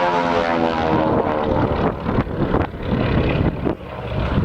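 Aircraft engine passing by, its droning pitch falling slowly as it goes past, then fading within a couple of seconds. In the second half the microphone is buffeted in short irregular thumps, typical of wind.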